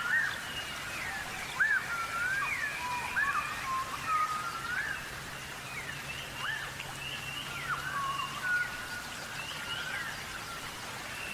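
Several birds calling, a busy overlapping chatter of short whistled notes that slide up and down, over a steady hiss.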